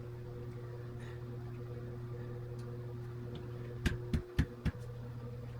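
Four quick sharp taps, about a quarter-second apart, a little past the middle, over a steady low hum. The taps are typical of a hammer or hand tool working a windscreen's rubber seal into place.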